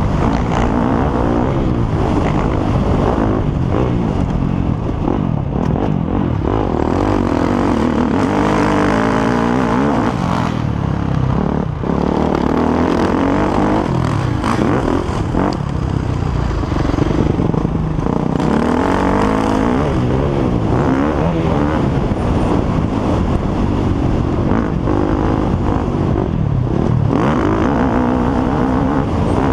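Several motocross motorcycles racing, their engines revving up and falling back as they accelerate, shift and pass, with overlapping engine notes rising and falling throughout.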